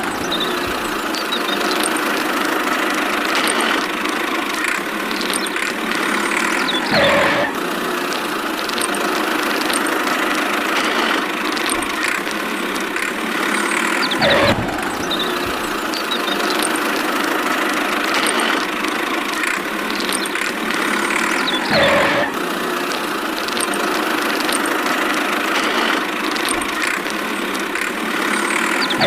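A small motor running steadily, with a brief louder surge three times, about every seven and a half seconds.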